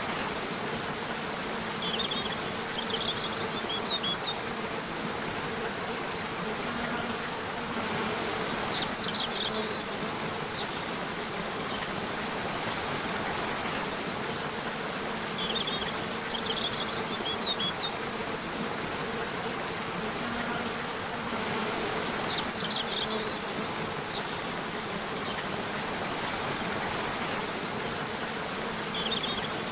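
Nature ambience: a steady rushing, water-like hiss with an insect buzzing, and short clusters of high chirps that come back about every six to seven seconds, like a repeating loop.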